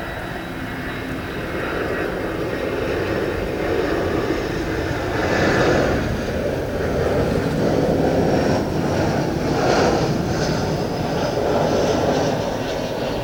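Airbus A321 jet airliner landing close by: its engines rumble and whine, getting louder over the first few seconds, then swelling and easing several times.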